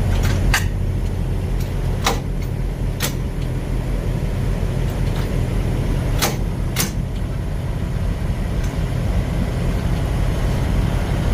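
Truck engine running with a steady low rumble, with about half a dozen short, sharp clicks scattered through it.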